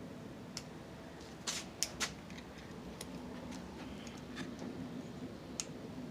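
Small metal clicks and taps from handling a screw-holding screwdriver and its screw, a few scattered sharp clicks with a quick cluster about a second and a half in, over a faint low hum.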